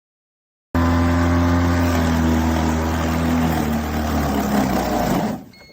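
Greenworks 80V brushless cordless push mower running with its blade spinning: a steady, loud electric-motor and blade hum that cuts in suddenly about a second in and dies away near the end.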